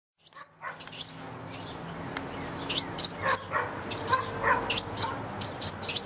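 A flock of small birds chirping: many short, high chirps in quick succession, with lower, fuller calls mixed in.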